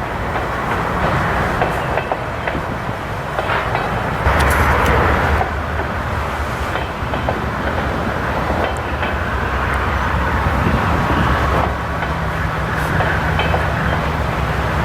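Train rolling past: a steady rumble of wheels on rail with scattered clicks and a low steady drone underneath, loudest about four to five seconds in.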